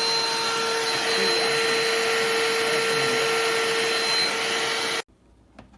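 BLACK+DECKER 20V dustbuster cordless handheld vacuum running steadily, its motor whine held level over the rush of air, then cutting off abruptly about five seconds in.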